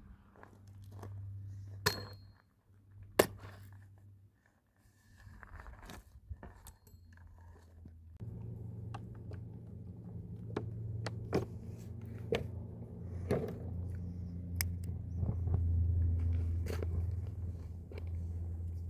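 Irregular crunches, knocks and scrapes, over a low steady hum that gets louder about eight seconds in.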